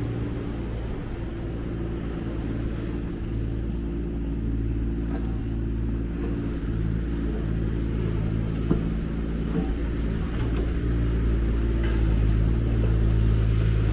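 A road vehicle's engine running close by, a steady low hum that grows slowly louder.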